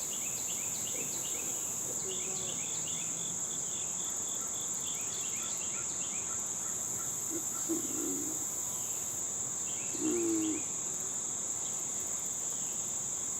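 Steady high-pitched insect trilling, with runs of short, quickly repeated chirps over it.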